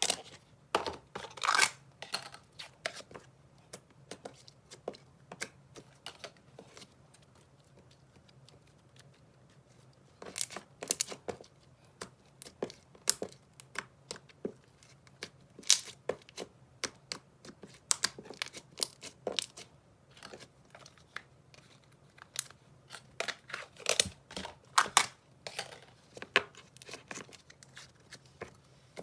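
Slime being squished and stretched by hand, giving a run of sharp clicks, pops and crackles, with a quieter stretch of several seconds in the first third.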